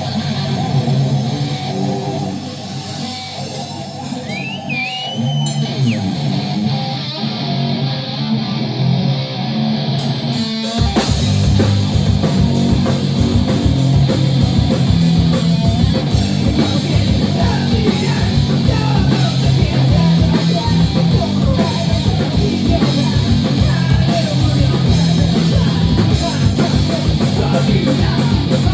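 Rock band playing live with distorted electric guitar: the guitar plays with little else for about the first ten seconds, then drums and the full band come in hard and keep a fast, driving beat.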